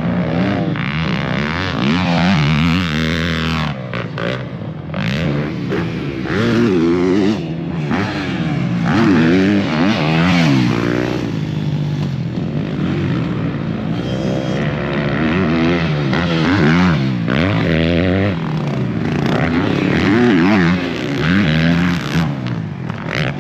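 Motocross dirt bikes riding the track. Their engines rev up and down over and over as they accelerate, shift and back off for jumps, with several bikes overlapping.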